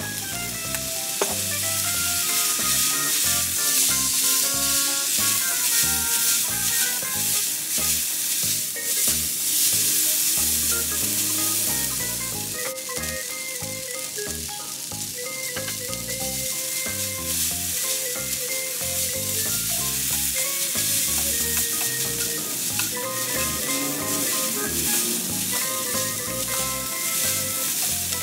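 Noodles frying in hot oil in a non-stick pan, sizzling steadily as dark soy sauce and sambal are stirred through them, with light background music.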